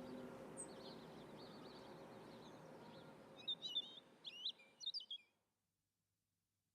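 Faint bird chirps over a low hiss: a quick run of short, high calls starting about three and a half seconds in, after which the sound cuts to dead silence.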